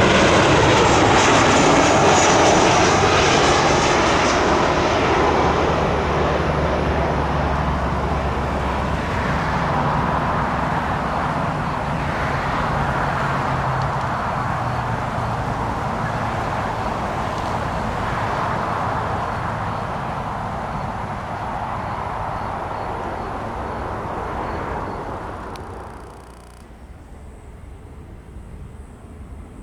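Jet airliner engines running as the plane passes close by, the pitch falling as it goes past. The noise then slowly fades into the distance and drops away sharply near the end.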